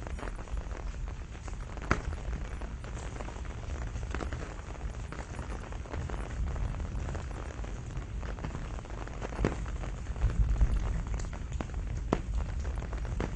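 Steady rain falling, with scattered louder drops striking close by and a deep low rumble underneath that swells about ten seconds in.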